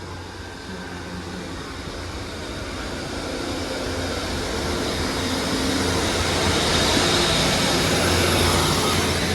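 Two-coach diesel multiple unit pulling away under power, its engine running steadily and growing louder throughout.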